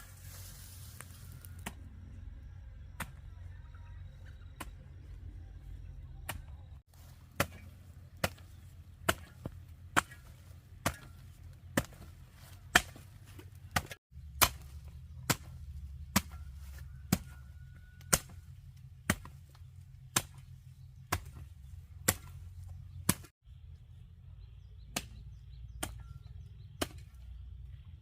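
Firewood being chopped: sharp chopping strokes, a few spaced ones at first, then about one a second for some fifteen seconds, then a few more spread out. A steady low rumble runs underneath.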